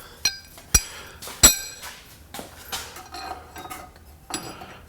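Steel hardware clinking and knocking: three sharp ringing metal strikes, the loudest about a second and a half in, then several lighter clinks, as U-bolts and fittings are handled at a leaf-spring axle mount.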